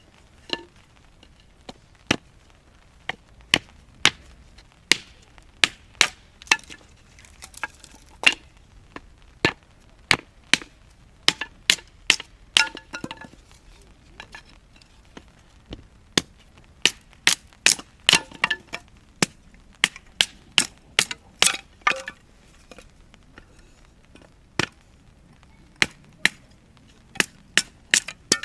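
A long run of sharp knocks, roughly one or two a second with short pauses, several of them with a brief ringing tone.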